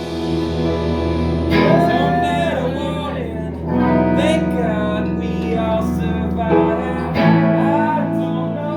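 A band playing a song: strummed guitar chords with a sung melody over them, the chord changing about seven seconds in.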